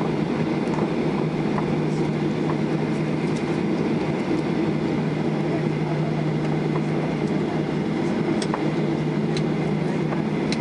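Steady cabin drone of a Boeing 737-800 with its CFM56 turbofans running evenly at low power on the ground, a constant low hum with no spool-up yet, and a few faint ticks.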